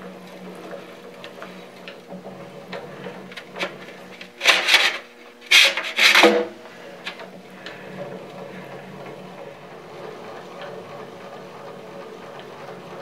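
Thin steel dust-cover plates and small parts of a surface grinder being handled and fitted by hand: scattered light clicks, then three louder metal scraping clatters about halfway through. A steady low hum runs underneath.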